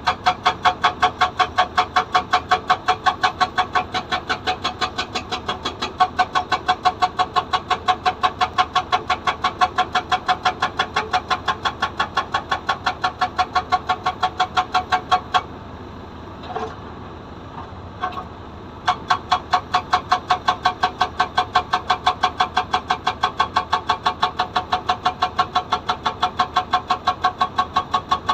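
SAGA 288H hydraulic rock breaker on a Komatsu PC200 excavator hammering rock: a rapid, steady run of ringing metallic blows, about four to five a second. The hammering stops for about three seconds past the middle, then starts again.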